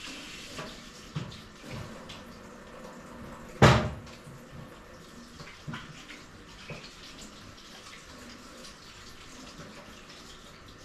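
Handling noises from work on a barrel and pipe fitting: small scattered clicks and rustles, with one loud knock about three and a half seconds in.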